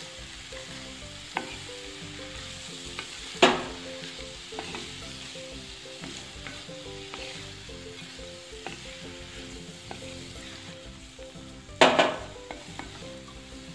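Chopped spring onions and soaked chana dal sizzling in hot oil in a pan while a spatula stirs them, with two sharp knocks of the spatula against the pan, one about three seconds in and one near the end.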